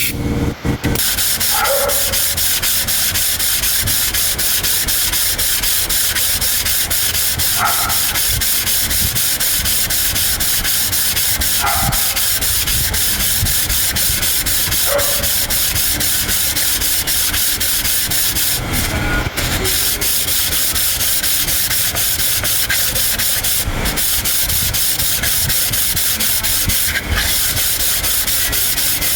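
Steady, unbroken abrasive rubbing, like sanding, running at an even loudness.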